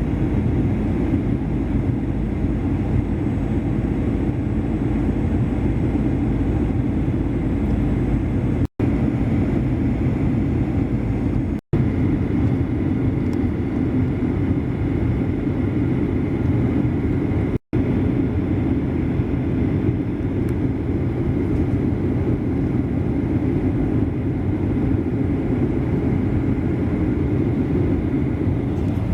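Steady cabin noise inside a Boeing 737-800 airliner: the low drone of its CFM56 engines and the rush of air past the fuselage. It cuts out for an instant three times.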